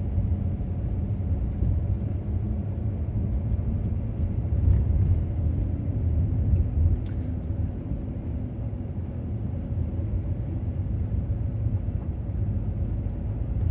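A van driving along a road, heard from inside the cabin: a steady low rumble of engine and tyres, with a couple of faint clicks about five and seven seconds in.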